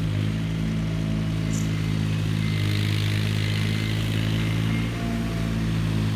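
Tree-service truck engine running steadily at a low, even pitch with a slow regular throb.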